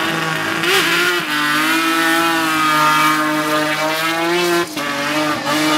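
Race car engine held at high revs under full throttle down a drag strip, its pitch rising slightly, with a brief break about four and a half seconds in as it shifts gear before pulling again.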